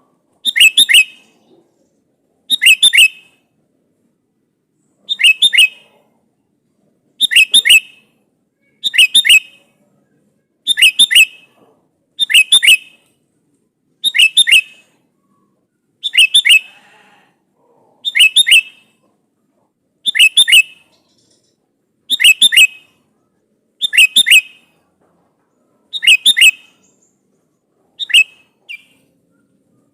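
Sooty-headed bulbul (kutilang) giving a loud, short challenge call to a rival: a quick double-noted phrase repeated about every two seconds, some fifteen times.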